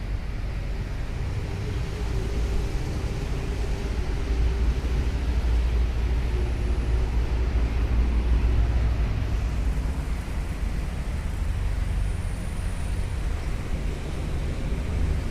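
Heavy truck engine running with a deep low rumble that grows louder toward the middle and then eases off.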